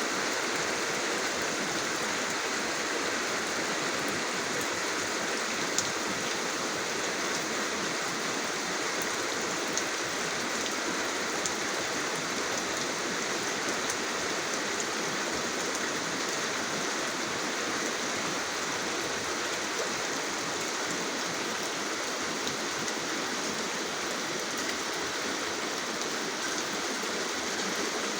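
Steady rain falling, an even wash of water noise with a few sharper drop ticks scattered through it.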